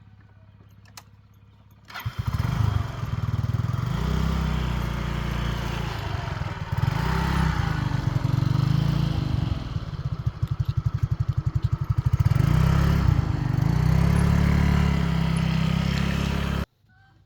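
Motorbike engine running loudly, its pitch rising and falling unevenly with the throttle. It comes in suddenly about two seconds in and stops abruptly near the end.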